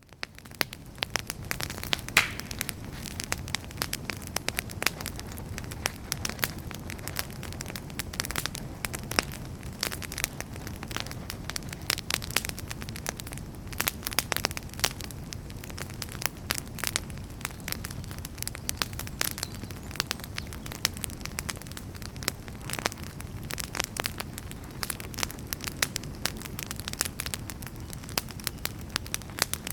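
Wood fire burning in a fireplace: logs crackling and popping continuously over a steady low rumble of flame, fading up in about the first second.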